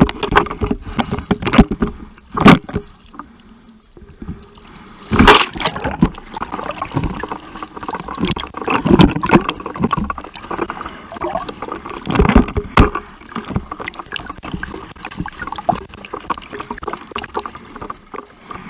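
Seawater splashing and sloshing close to the microphone in irregular surges, with gurgling as water washes over it.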